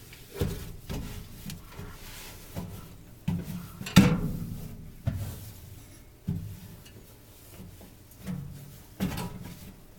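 Irregular knocks and bumps from wiping out the inside of a microwave oven by hand with a damp napkin, about eight in all, the loudest about four seconds in.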